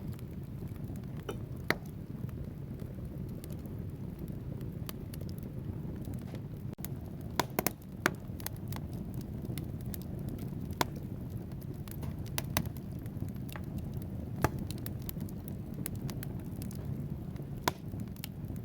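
Wood fire burning in a fireplace: a steady low rumble of flames with frequent sharp crackles and pops from the logs, a few of them louder than the rest.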